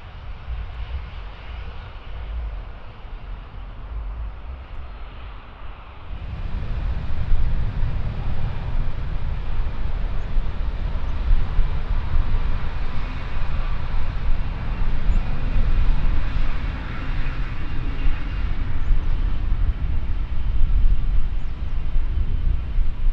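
Jet airliner engine noise: a steady rumble that gets suddenly louder about six seconds in and stays loud, with a faint whine from about ten seconds on.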